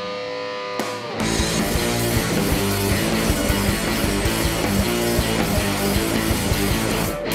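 Live rock band playing: a held guitar chord rings on its own for about the first second, then the full band with drums comes back in. A brief break in the sound comes just before the end.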